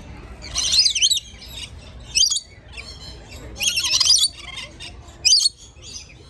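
Lorikeets calling in short, shrill, warbling squawks, about four bursts with brief pauses between them.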